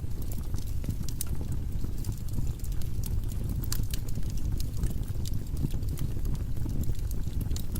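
Firewood burning in a fireplace: a steady low rumble of the flames with scattered sharp crackles and pops from the logs.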